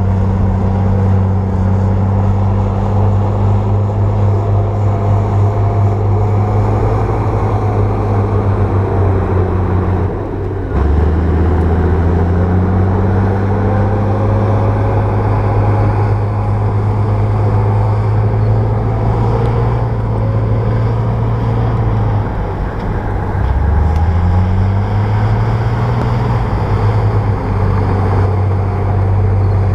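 A bulldozer's diesel engine runs hard and steady while the dozer pushes soil. The engine speed drops sharply twice, about a third of the way in and again past two-thirds, then climbs back over a few seconds, as the engine pulls down under the blade's load.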